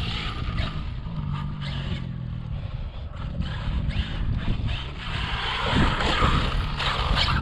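Traxxas Maxx V2 electric RC monster truck driving over rough dirt, its brushless motor whining and tyres scrabbling, with repeated knocks and clatters as the truck lands and flips.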